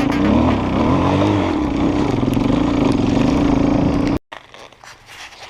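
Enduro motorcycle engine running loud and steady, its pitch rising and falling as the throttle changes. It cuts off abruptly about four seconds in, leaving faint scraping sounds.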